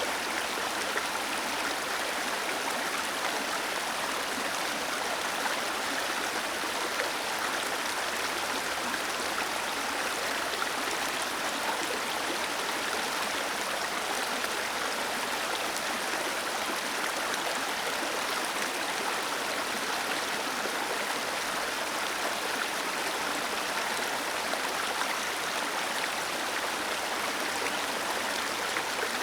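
Waterfall cascading into a stream: a steady, even rush of water with no change.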